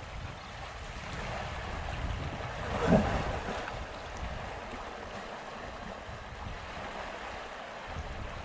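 Wind buffeting the microphone over moving water, with one brief louder pitched sound about three seconds in.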